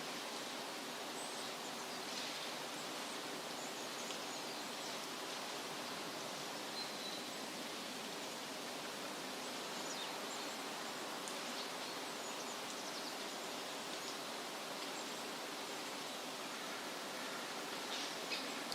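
Steady rustle of wind through leafy trees, with faint, scattered high bird chirps now and then.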